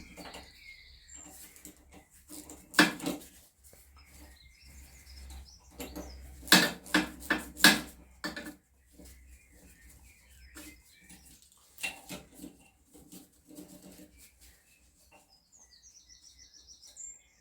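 Metal clinks and knocks as tools and steering parts are handled, loudest in a cluster of several strikes about halfway through. A small bird chirps in quick high series near the end.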